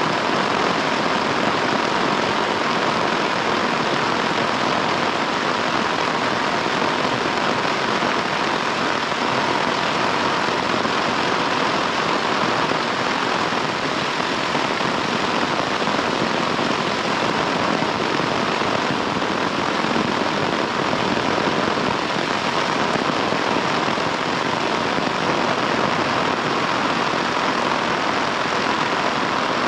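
Heavy rain falling steadily, a dense, unbroken rush of water that does not let up.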